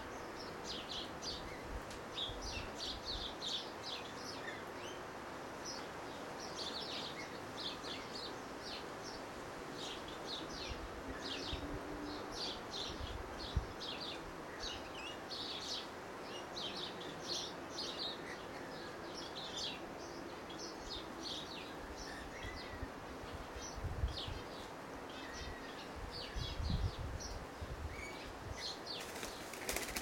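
Birds chirping: many short, high calls in quick succession, over a steady low hiss, with a few dull low thumps near the end.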